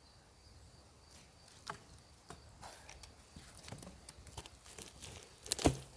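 Ontario Bushcraft machete cutting a notch into wood: a run of light taps and knocks, then one hard chop near the end.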